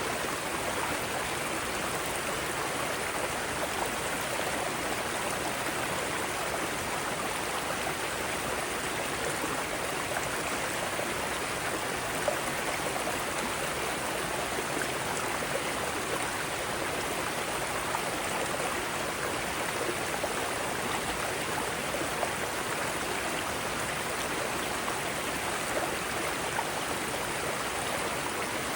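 Mountain stream with water cascading over rocks in small cascades, a steady, even water noise.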